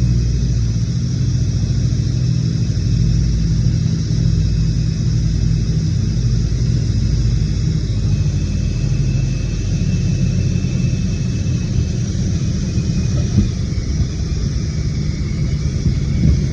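Twin radial engines of a Beech 18 running steadily, a continuous low rumble with a faint steady high tone above it.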